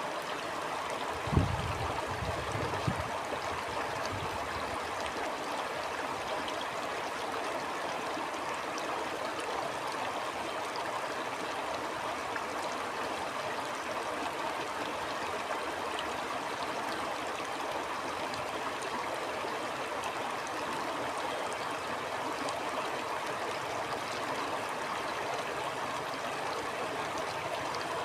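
Steady rushing and gurgling of a flowing stream. Two brief low thumps come about a second and a half and three seconds in, the first the loudest thing heard.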